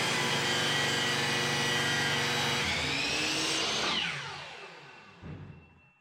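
Compound miter saw motor running steadily after a cut through a 2x4. About four seconds in it is switched off and the whine falls as the blade spins down, with a soft knock near the end.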